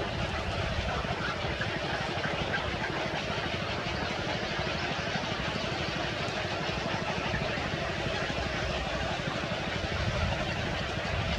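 An engine running steadily, a fast low pulsing with a broad hiss over it.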